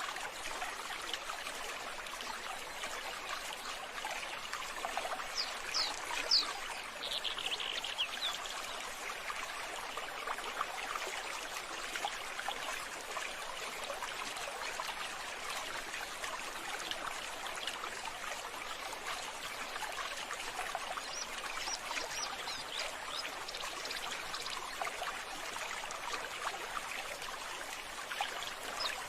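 Running water trickling steadily, with a few short high-pitched chirps about six seconds in and again near the end.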